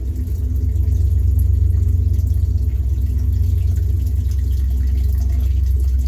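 Great Lakes Central Railroad freight train passing, a heavy, steady low rumble. A faint trickle of water runs behind it.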